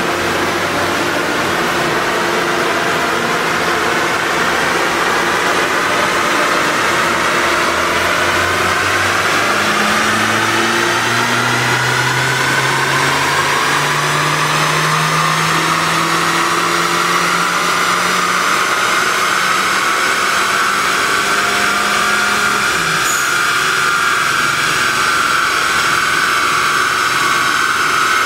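Remapped Audi A4 quattro's turbocharged engine pulling under full load on a chassis dyno. Its pitch climbs slowly and steadily as the revs rise through a long run, over a constant rushing noise.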